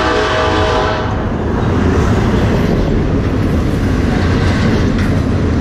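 Double-stack container freight train cars rolling past close by: steady rumble of steel wheels on rail with a clickety-clack. A held train horn chord sounds at the start and cuts off about a second in.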